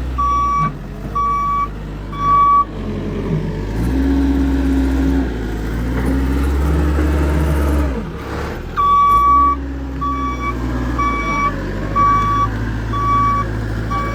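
A vehicle's reversing alarm beeping about twice a second over a running engine. The beeping stops for several seconds in the middle while the engine gets louder, then starts again.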